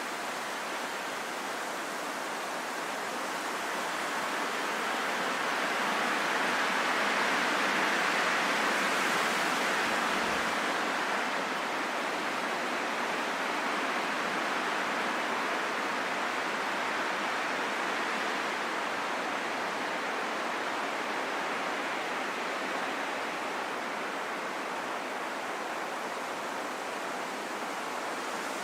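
Steady rain falling in a forest: an even hiss with no separate drops standing out, growing a little louder for a few seconds about a quarter of the way in.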